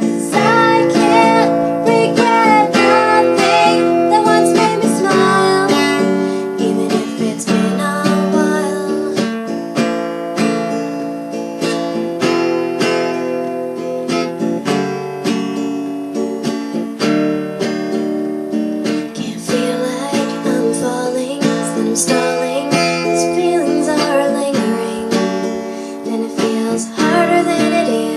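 Music: acoustic guitar strumming a song accompaniment, fuller and louder for the first few seconds, softer through the middle, and building again near the end.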